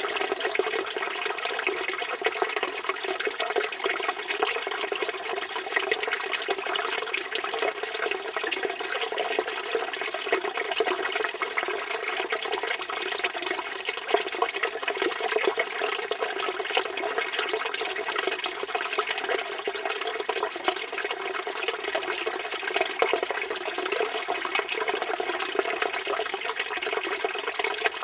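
Water from a village fountain (çeşme) pouring in a steady, unbroken stream, splashing continuously.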